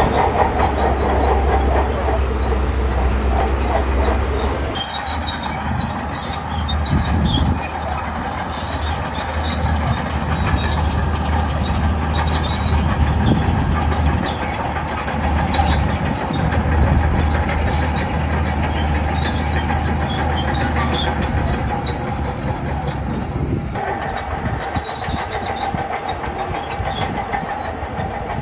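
Shantui crawler bulldozer at work: its diesel engine running with the steady clatter of the steel tracks, the deep engine hum dropping back about five seconds in.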